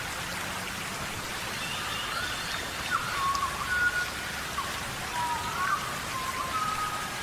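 Steady rainforest rain hiss of drops falling on foliage. Short whistled animal calls, some rising, repeat about twice a second over it.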